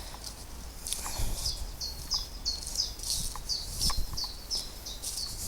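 A small songbird singing: a quick run of short, high chirps, about three a second.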